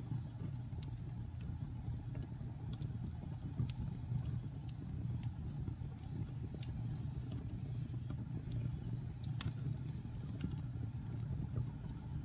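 Wood fire in a fireplace crackling: irregular sharp pops and snaps over a steady low rumble of burning, with one louder pop about nine seconds in.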